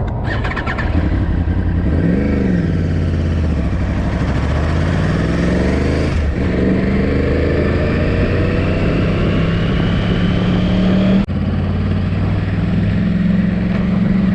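Yamaha R1 motorcycle's inline-four engine under way, pulling up through the gears on gentle throttle while the engine is being run in. Its pitch climbs, drops at a shift about six seconds in, climbs again, and dips briefly at another shift near eleven seconds.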